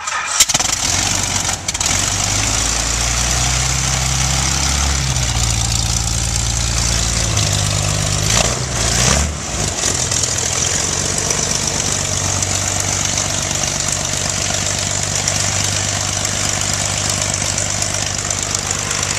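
Stearman biplane's radial engine just after catching, running with its propeller turning. Engine speed shifts several times in the first ten seconds, with a brief dip about nine seconds in, then it settles into a steady run over a strong rush of propeller wind.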